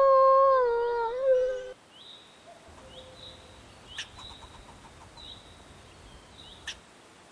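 The end of a long rooster crow, held on one pitch and then falling and wavering before it cuts off. After it come faint, repeated small-bird chirps and a couple of sharp clicks.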